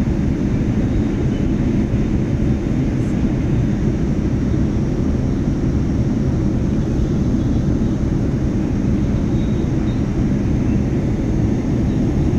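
Steady low rumble of an airliner in flight, heard from inside the cabin: engine and airflow noise with no change in level.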